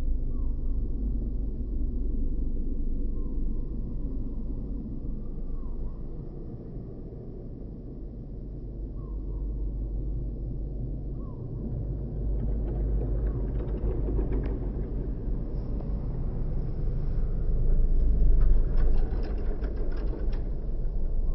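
Low, steady rumble of a car, growing busier with scattered clicks in the second half.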